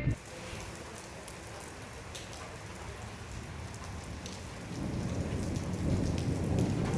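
Rain falling steadily during a thunderstorm, with scattered sharp ticks of drops hitting close by. About five seconds in, a low rumble builds and holds.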